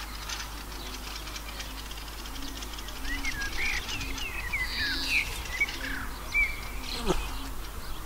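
Songbirds chirping in quick series of short, curling notes, busiest in the middle. Near the end a single short sound sweeps steeply downward.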